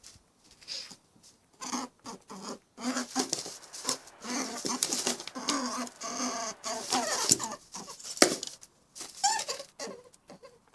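An animal calling: a busy, irregular run of short squeaks and chirps with clicks between them.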